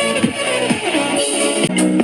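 Electronic music played on a Portronics Sound Drum 1 portable Bluetooth speaker for a bass test, with falling bass sweeps about twice a second. About 1.7 s in it changes suddenly to steady held notes.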